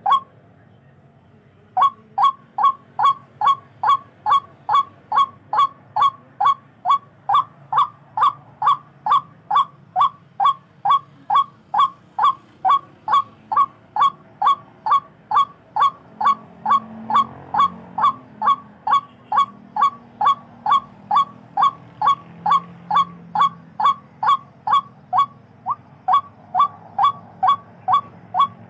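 Tikling (a Philippine rail) calling: a fast, very regular series of short, sharply falling honking notes, about two and a half a second, starting up again after a short pause about two seconds in.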